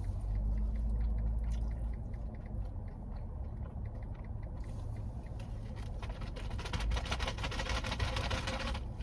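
Eating noises at close range over a low steady rumble: scattered small clicks, turning to dense crackling and crunching from about halfway.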